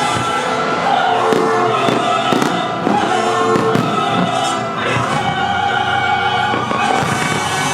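Several fireworks shells bursting with sharp bangs over loud music with singing.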